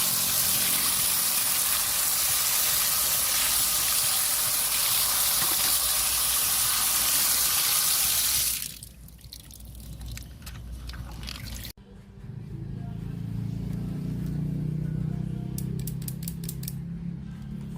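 Steady radio static hiss that cuts off suddenly about eight and a half seconds in. Faint ticks follow, then a sharp click about twelve seconds in and a low hum with scattered clicks.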